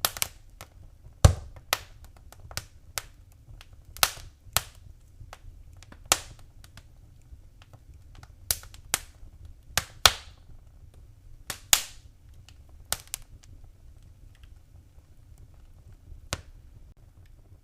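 Wood fire in a fireplace crackling: irregular sharp pops and snaps, a few loud ones among many small ticks, over a faint low steady rumble.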